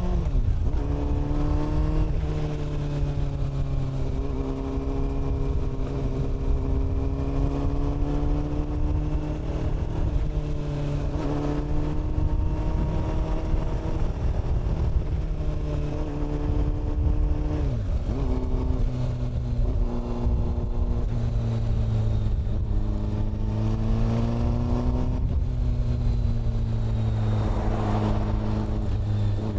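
Honda CB400 Super Four's inline-four engine and exhaust running under way, at moderate revs. Its pitch drifts up and down and drops sharply a few times, as with gear changes and throttle.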